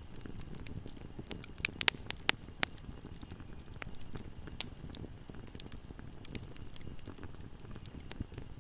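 Wood campfire burning, crackling and popping over a low steady rumble, with a quick cluster of louder pops about two seconds in.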